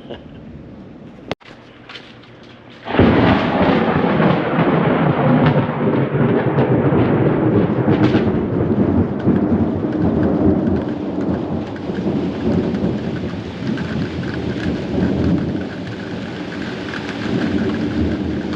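Rain falling steadily, then about three seconds in a loud thunderclap breaks and rumbles on for many seconds, slowly fading over the rain.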